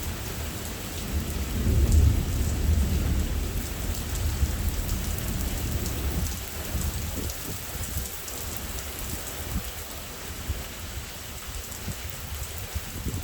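Thunder rumbling low and long, loudest about two seconds in and dying away by about six seconds, over steady heavy rain.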